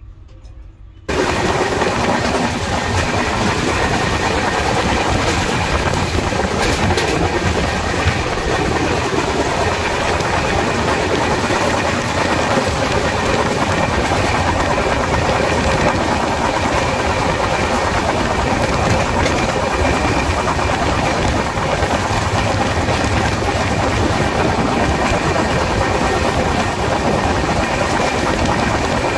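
East Coast Express passenger train running at speed, heard through an open coach door: the steady, loud running noise of wheels on the rails. It starts abruptly about a second in, after a quieter moment inside the closed coach.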